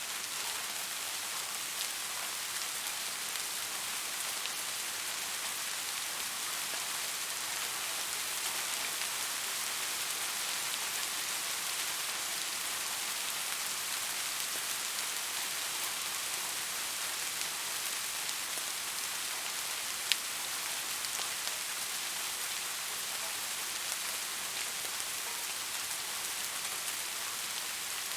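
Steady rain falling, an even, dense hiss of drops with most of its weight in the higher pitches. About twenty seconds in, a single sharp click stands out above the rain.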